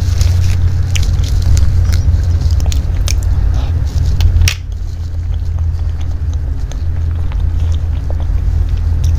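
Close-miked mouth sounds of a person chewing a piece of cake, with many small sharp mouth clicks over a steady low hum. The clicks thin out about halfway through.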